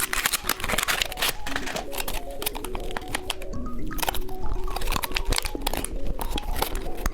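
Background music playing over a busy run of sharp crinkling and crunching clicks from strawberry chocolate candy being handled and eaten.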